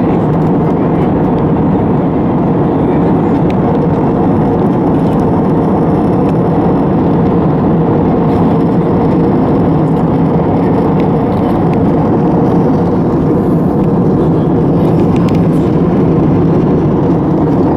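Steady cabin noise inside an Airbus A320 in flight: an even rush of airflow and engine noise that does not change.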